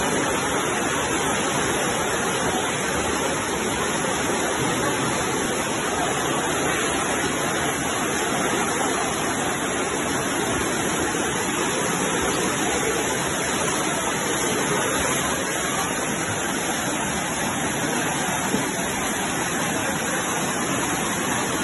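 Steady, even rush of water from flooding along a street, unbroken throughout.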